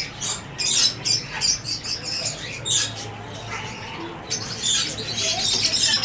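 Many caged birds chirping and squeaking: scattered short, high chirps at first, then a denser chatter of many birds from about four seconds in.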